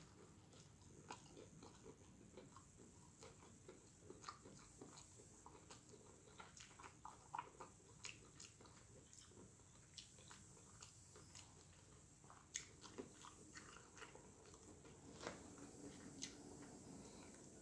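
Faint, close-up biting and chewing of a crispy fried vegetable egg roll: a bite at the start, then many small, irregular crunches of the wrapper as it is chewed.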